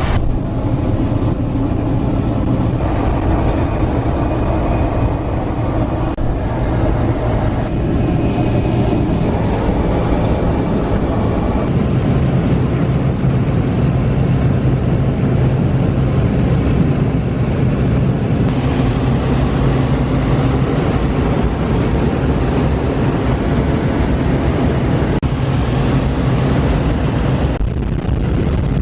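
Steady, loud drone of a skydiving jump plane's engine heard inside the cabin, with a thin high whine in the first part. The sound shifts abruptly several times.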